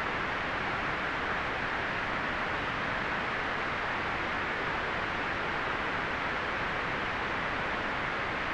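Steady white noise: an even, unchanging hiss that is strongest in the upper middle and falls away at the very top.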